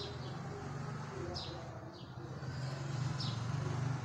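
Short high bird chirps, each falling in pitch, about one a second, over a steady low hum.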